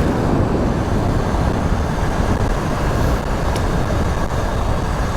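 Wind buffeting a lav mic inside a motorcycle helmet while riding an electric dirt bike at speed: a loud, steady rush of wind noise, heaviest in the low end.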